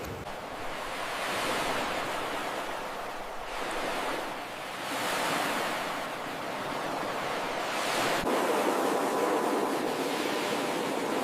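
Ocean surf: waves breaking and washing up a beach, the rush swelling and easing several times.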